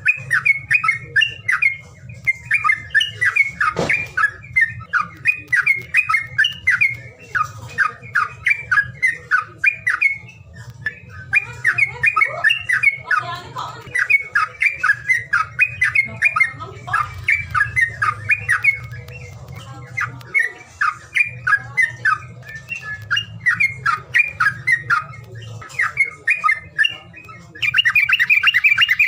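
Songbird chattering in quick repeated phrases of harsh, rapid notes, breaking into a continuous fast trill near the end. It is a lure recording meant to set caged birds that won't sing into song.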